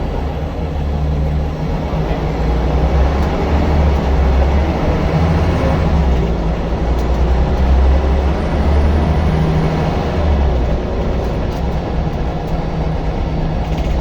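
Scania L94UB bus's diesel engine running under way: a steady low drone that swells and eases a few times, over road noise.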